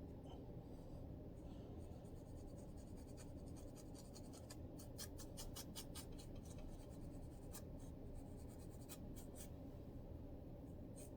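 Faint scratching at a scalp to loosen dandruff: a quick run of short scraping strokes through the middle, with scattered single strokes later, over a low steady hum.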